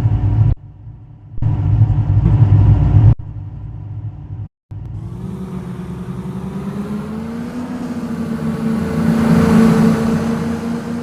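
Mahindra SUV engines revving and accelerating in a few short clips that cut in and out abruptly. The last clip is one engine pulling hard, its note rising steadily for several seconds and loudest near the end.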